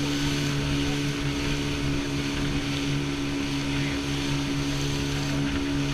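Motorboat's outboard motor running at a steady speed, one constant hum with wind and water rushing past.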